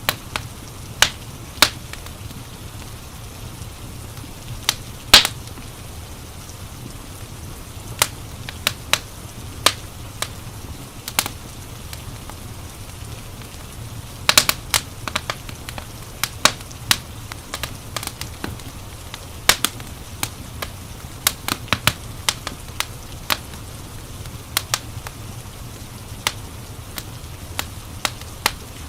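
Wood fire crackling: irregular sharp pops and snaps, some in quick clusters, the loudest about five seconds in, over a steady low rumble.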